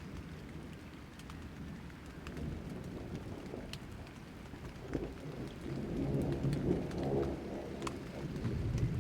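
Rain falling in scattered drops, with a low rumble of thunder that builds from about halfway through.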